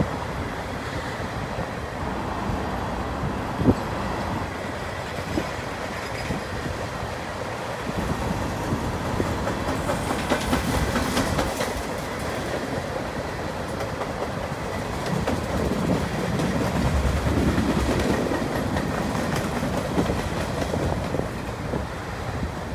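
A long freight train of tank cars, boxcars and autoracks rolling past, its steel wheels rumbling on the rails with irregular clicks and sharp knocks.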